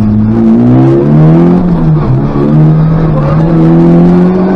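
Škoda Favorit rally car's engine under hard acceleration, heard from inside the cabin. The engine note rises, dips briefly about two seconds in, then holds and climbs again.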